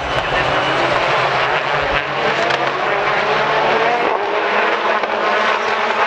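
British Touring Car Championship race cars running at racing speed, a loud, steady engine drone whose note shifts around four seconds in.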